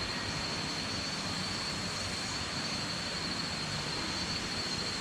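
Steady rushing noise with a constant high-pitched whine held over it, unchanging throughout.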